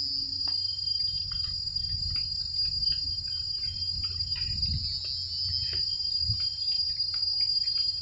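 Cicadas calling in a loud, steady high-pitched drone.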